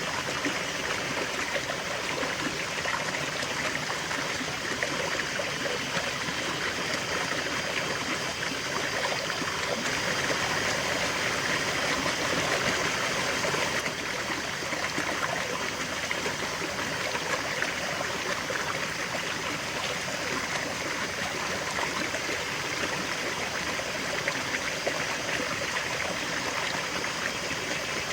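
River water flowing steadily over stones, a constant rushing and burbling with a slight swell in the middle.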